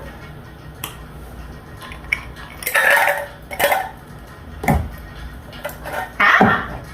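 Several separate clinks and knocks as a cup of ice and drinkware are handled, over the steady low hum of a room heater.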